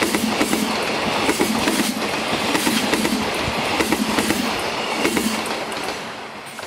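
A freight train's container flat wagons roll past, their wheels clattering over the rail joints in a steady string of clicks. Near the end the noise falls away as the last wagon goes by.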